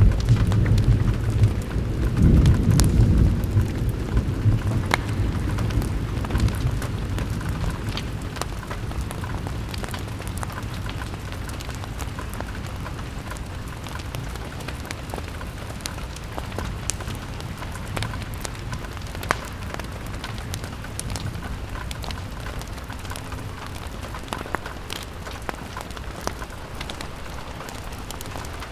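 Steady rain falling on a window, with scattered sharp crackles from a fireplace. A deep rumble swells at the start and fades away over the first several seconds.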